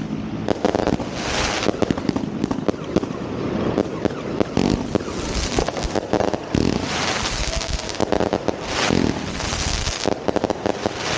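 Fireworks going off: a dense run of sharp bangs and crackling, with several hissing bursts of about a second each.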